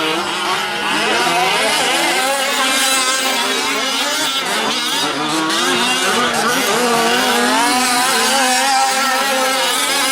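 Several 1/5-scale gas RC trucks' small two-stroke engines racing together, their pitches overlapping and rising and falling as they rev up and back off around the track.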